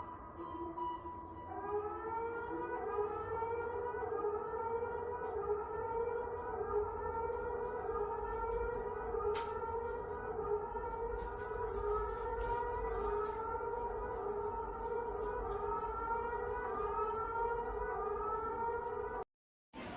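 An electronic siren-type alarm: a steady tone overlaid with rising wails that repeat about once a second. It cuts off abruptly about a second before the end.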